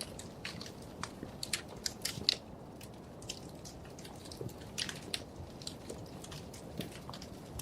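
Wood fire crackling in a fireplace: irregular sharp pops and snaps, a louder pop a little over two seconds in, over a steady low rustle of burning logs.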